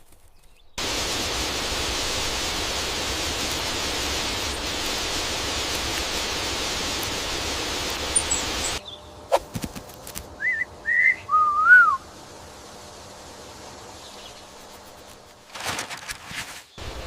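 A steady, loud hiss of rushing noise that cuts off suddenly about nine seconds in. After it, a bird gives a few short whistled notes that rise and fall, the last one the loudest, with a few faint clicks.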